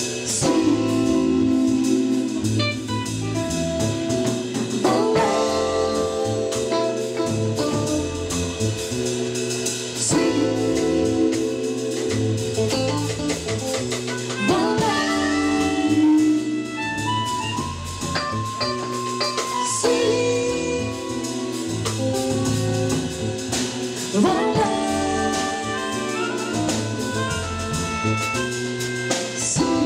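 Live jazz band playing an instrumental passage without vocals: a melodic lead line over bass, drum kit and keyboard.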